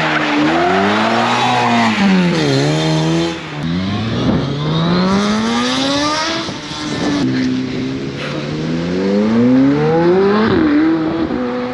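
Car engine revving hard: its pitch climbs steadily for a few seconds, drops back, and climbs again several times.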